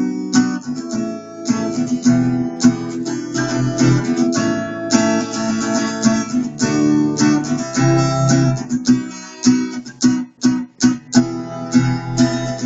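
Acoustic guitar strummed in chords, playing an instrumental break with no singing. About ten seconds in it plays a few short, clipped strokes with brief gaps between them.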